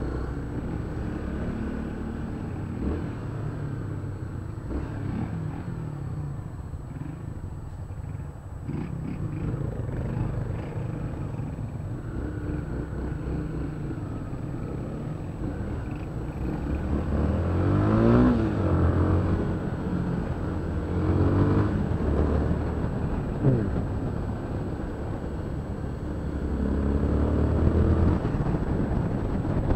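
Honda CB300's single-cylinder engine running while riding in stop-and-go traffic. The revs rise and fall with the throttle, climbing most clearly about two-thirds of the way in and again a few seconds later.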